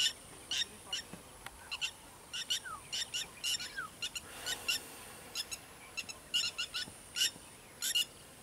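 Birds calling: short, sharp high chirps repeated irregularly, two or three a second, over a faint steady high-pitched whine.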